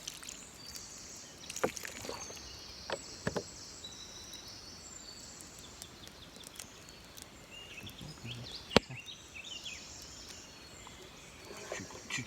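Faint water sloshing as a cooked snail is rinsed by hand, with scattered clicks and knocks from the handling; one sharp click stands out near the end.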